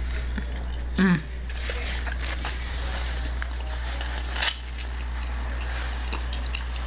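Close-up eating sounds: chewing and small mouth clicks from eating chicken wings, with a short hummed voice sound about a second in and paper napkin rustling as hands are wiped, including a sharp click about four and a half seconds in. A steady low hum sits underneath.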